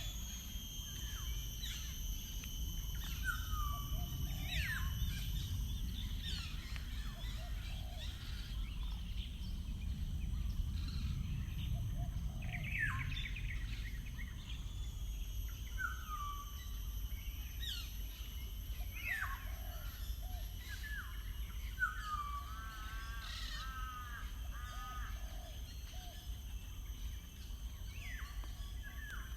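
Wild birds calling and singing: scattered short, falling whistled notes, with a warbling trilled phrase about two-thirds of the way through. Under them run a steady high-pitched hum and a low outdoor rumble.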